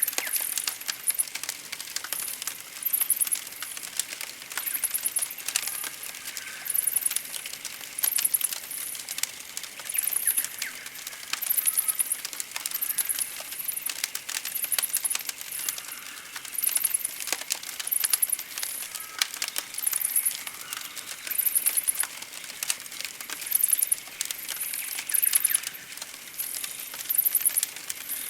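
Campfire crackling with sharp pops, mixed with very high-pitched, short chirping phrases repeating roughly once a second and faint birdsong in the forest.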